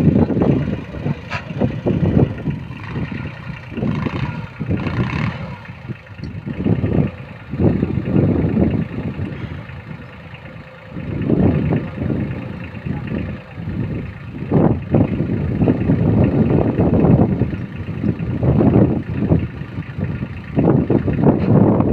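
VST Shakti mini tractor's diesel engine running, its level swelling and dipping unevenly.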